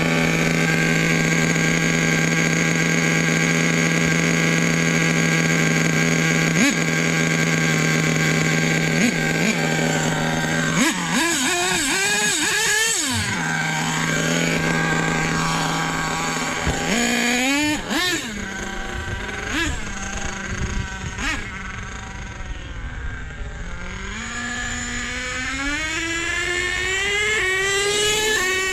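Nitro RC truck engine, freshly fitted with a new fuel line, running at a steady high idle. It is then revved in swoops, blipped several times and wound up slowly in revs near the end.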